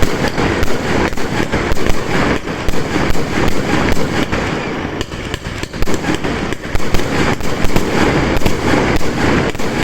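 Fireworks going off in a dense barrage: a rapid, continuous stream of bangs and crackling that starts abruptly and stays loud throughout.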